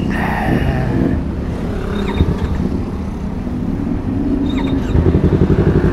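Yamaha R3 motorcycle starting up: about five seconds in, the starter turns the engine over strongly with a fast, even pulsing, now that its worn starter carbon brushes have been replaced to cure its hard starting. Before that there is a low, steady vehicle hum.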